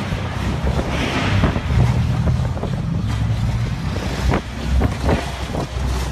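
Wind buffeting the microphone over a low rumble and water noise on a boat at sea, with a few short knocks about four to five seconds in.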